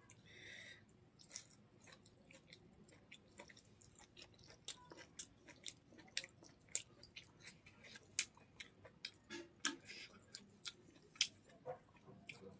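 Close-miked chewing of chicken gizzard: irregular sharp mouth clicks, sparse at first and coming thicker after the first few seconds.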